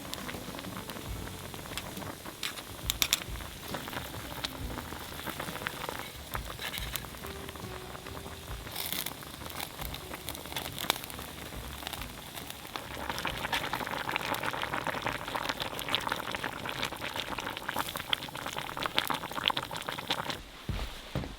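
Food boiling and sizzling in a pot over a wood fire, with a steady crackle of small ticks and pops. It grows louder about thirteen seconds in and eases off shortly before the end.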